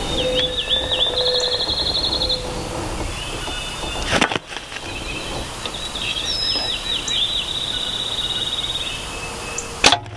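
A songbird sings the same phrase twice, a few quick down-slurred notes and then a fast high trill, over faint steady background noise. A sharp click comes just before the end.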